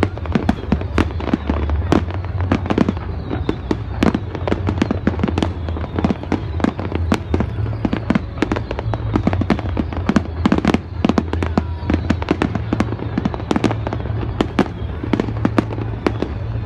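Fireworks display, with shells bursting in quick succession at several bangs a second, without let-up.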